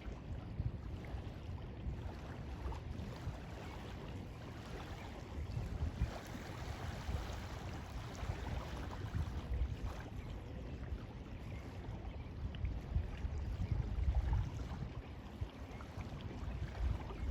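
Lake water lapping gently at the shore, with wind gusting over the microphone in low rumbling swells.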